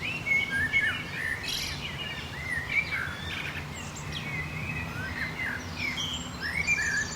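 Several small birds chirping and twittering continuously, with many short overlapping calls, over a low steady hum.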